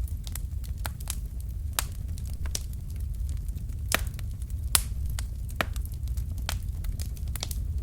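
Burning firewood logs crackling in a fireplace: irregular sharp pops and snaps, the loudest about four and five seconds in, over a low steady rumble of the flames.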